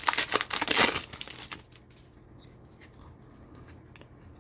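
A trading-card pack's wrapper crinkling and tearing as it is ripped open, for about the first second and a half, followed by faint handling ticks.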